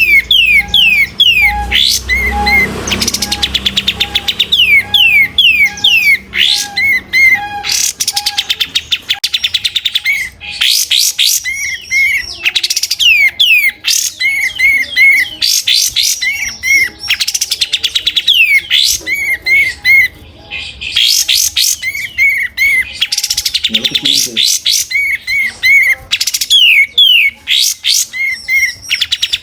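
Sooty-headed bulbul (kapas tembak) singing continuously in rapid, repeated runs of short chirps and whistled notes.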